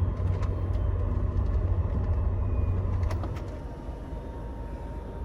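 Low rumble of a Scania Astromega double-decker coach, its engine and running noise heard from inside the bus, with a few light clicks. The rumble drops off clearly about three seconds in.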